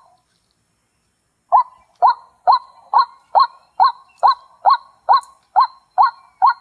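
A bird calling over and over in short pitched notes, about two and a half a second, starting about a second and a half in.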